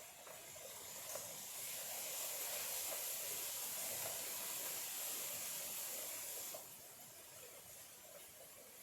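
Small stream trickling over stones, overlaid from about a second in by a loud, steady, high hiss that stops suddenly about two-thirds of the way through.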